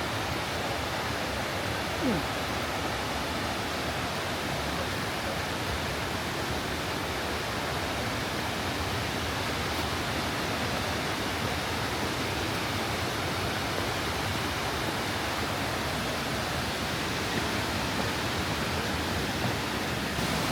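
Mae Ya Waterfall: a steady, unbroken rush of falling water.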